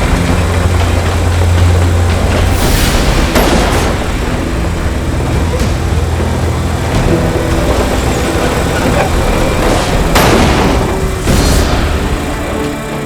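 Heavy tow truck's diesel engine running steadily during a boom lift, with several short bursts of hiss, two a few seconds in and two near the end.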